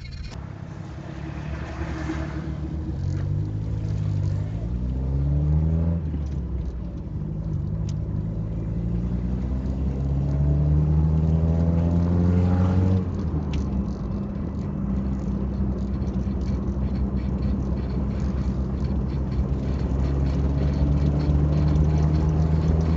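A Honda car's engine heard from inside the cabin as the car pulls away and accelerates. Its pitch rises, drops at a gear change about six seconds in, rises again to a second shift about thirteen seconds in, then holds steady.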